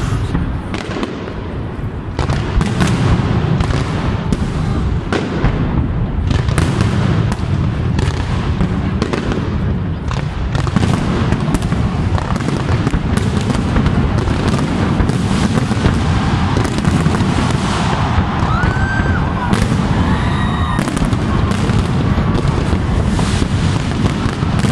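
Large aerial fireworks display: shells bursting in a dense, unbroken barrage of booms and crackles.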